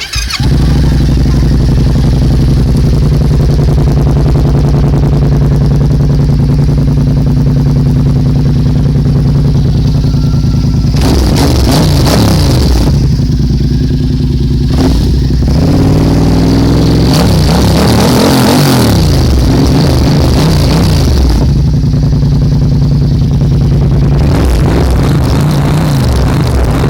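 Yamaha MT-07 parallel-twin running through an Arrow exhaust with the dB killer removed, loud and unbaffled. It idles steadily, is revved briefly about halfway through and then revved up and down for several seconds, and settles back to idle.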